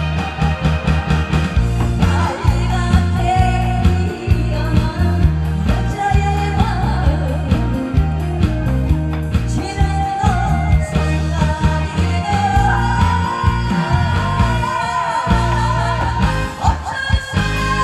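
A woman singing live with vibrato over a loud backing track with a heavy, steady bass beat.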